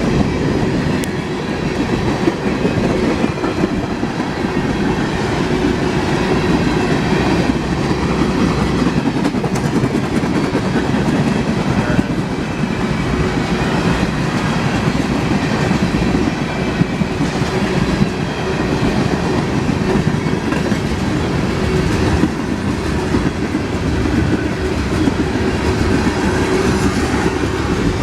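Freight train cars rolling past at close range, their steel wheels clattering and rumbling on the rails in a loud, continuous, steady run.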